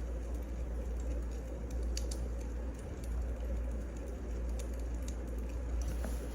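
Wood fire burning in a fireplace: a steady low rumble and hiss with scattered, irregular sharp crackles and pops from the burning logs.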